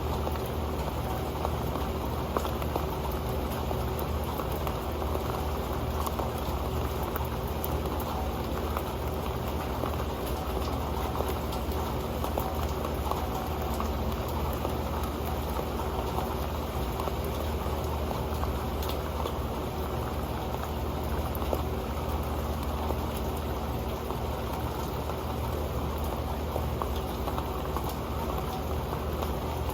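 Rain falling onto an old metal pan: a steady, dense patter of drops with occasional sharper ticks.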